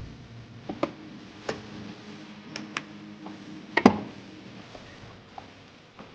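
A handful of sharp, irregularly spaced clicks and knocks, the loudest about four seconds in.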